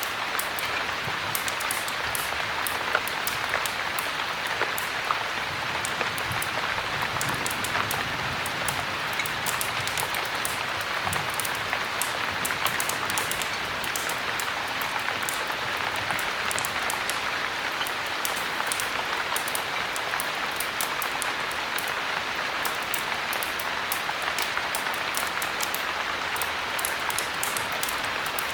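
Steady heavy rain, a dense even hiss, with many small sharp crackles from a wood fire scattered through it.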